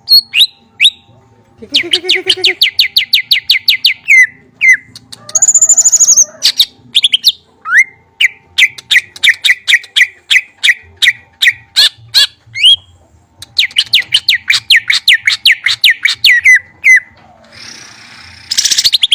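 Caged songbird singing in several rapid trills of short down-slurred notes, about eight a second, broken by a couple of louder, harsh noisy bursts.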